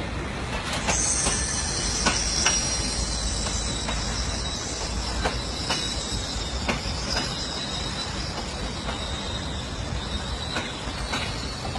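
Train running on rails: a steady rumble with a high-pitched wheel squeal that sets in about a second in and holds, and scattered sharp clicks.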